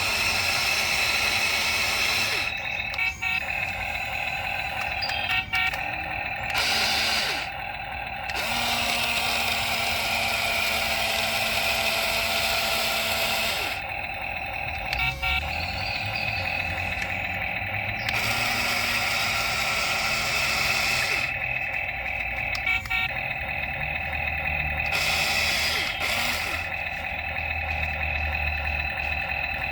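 Remote-control toy excavator running, its electric motors giving a steady mechanical whine whose tone changes now and then as different movements are worked, with a few small clicks.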